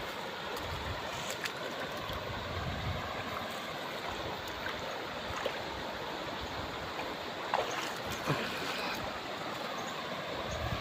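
River water flowing and rippling steadily, with two short sharp sounds about seven and eight seconds in.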